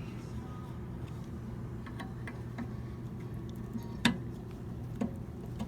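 Small metal clicks from hand tools and door hinge parts being handled, with one sharper knock about four seconds in and another a second later, over a steady low hum.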